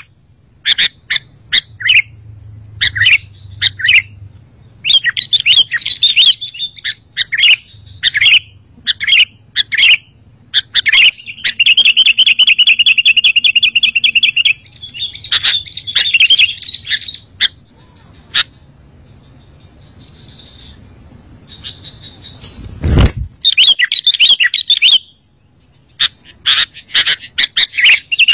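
Sooty-headed bulbul (kutilang) calling and singing in a run of short, loud chirpy phrases, with a long fast trill a little before halfway. A single sudden thump about 23 seconds in.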